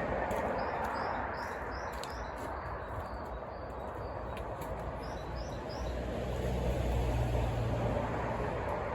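A small bird singing a run of quick high chirps, about six in a row early on and three more about five seconds in, over a steady rushing background with a low rumble that swells near the end.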